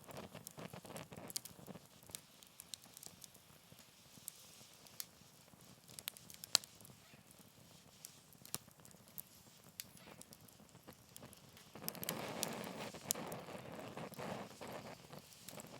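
Wood campfire crackling, with scattered sharp pops. About twelve seconds in, a louder rushing stretch lasts a few seconds before easing off.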